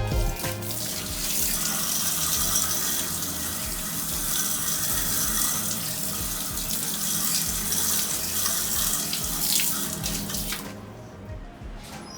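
Water spraying onto an air conditioner's blower wheel to rinse off mould and dirt, a steady hiss that starts about a second in and stops near the end.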